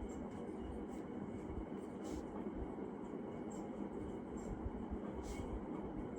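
Steady rumbling road and wind noise of a bicycle ride, with a few faint ticks.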